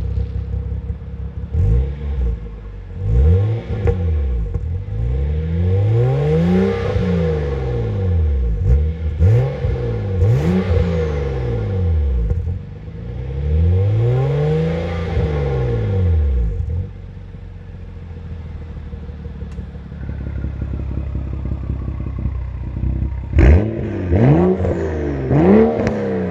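BMW 535i's turbocharged inline-six revved through an active-valve aftermarket exhaust: repeated throttle blips and several longer revs that rise and fall, settling to idle about 17 seconds in, then a flurry of quick sharp blips near the end.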